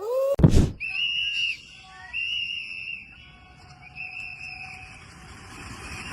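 Music ends with a sharp click, then a whistle sounds three held high notes, each about half a second long, while a noisy hiss builds near the end.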